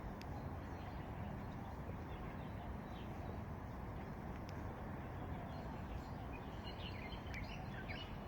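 Small birds chirping in short, quick calls, a few at first and a busier cluster near the end, over a steady low background rumble of outdoor ambience.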